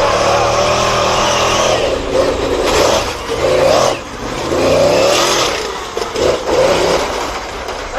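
Monster truck engine revving hard, its pitch climbing and dropping again and again.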